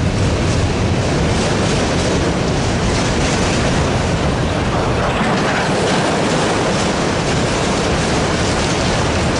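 Freight train of autorack cars passing close by: the steady, loud rolling noise of steel wheels on the rails as car after car goes past.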